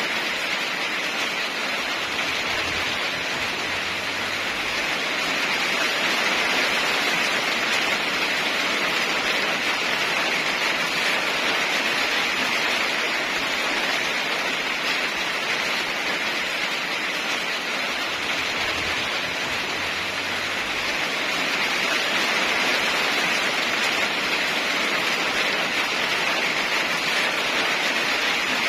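Heavy rain falling steadily, an even hiss that swells slightly twice.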